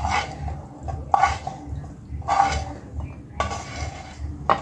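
Serving utensil scraping and clinking against dishes about five times while food is spooned onto a plate.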